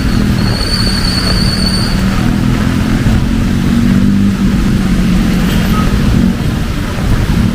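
Heavy rain falling with a motor vehicle's engine running close by, its low hum rising and falling. A high, thin squeal sounds for about a second and a half in the first two seconds.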